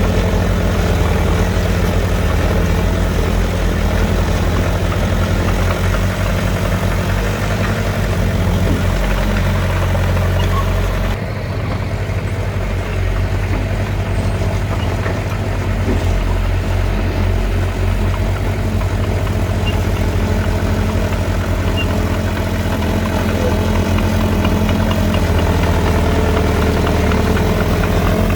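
Heavy diesel engine of earthmoving machinery running steadily, a low pulsing drone. About eleven seconds in the sound changes abruptly and the higher noise drops away, then the engine runs on.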